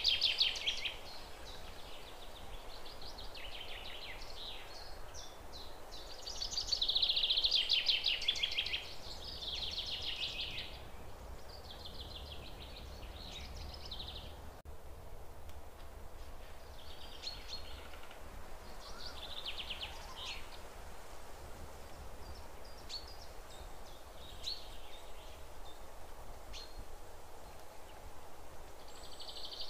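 Birds chirping and trilling in irregular bursts of high notes, loudest at the start and again about seven to nine seconds in, sparser and fainter after that, over a faint steady low rumble.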